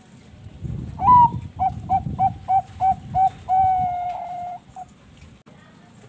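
Zebra dove (perkutut bangkok) singing one song phrase: a rising first note, a run of short, evenly spaced coos at about three a second, then a long held note and a final short coo.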